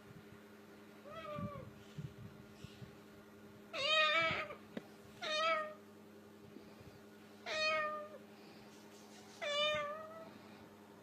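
A parrot mimicking a cat's meow: five drawn-out meow calls about two seconds apart. The first is faint and the next four are loud.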